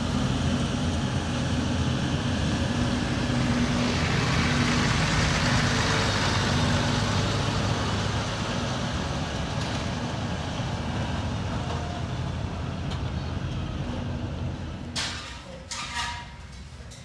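A motor vehicle engine running with a steady low hum, swelling louder for a few seconds and then fading away. A few sharp knocks come near the end.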